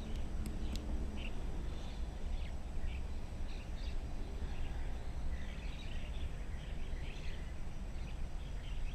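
Birds chirping and calling all around, many short notes scattered throughout, over a steady low rumble. Two sharp clicks come about half a second in.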